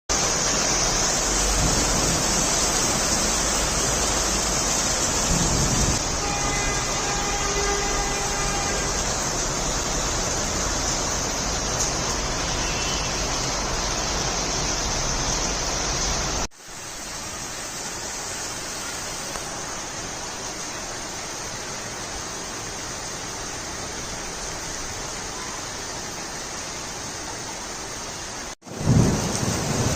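Steady heavy rainfall, an even hiss, broken by two sudden cuts, one about halfway through and one near the end. A loud low thump follows just before the end.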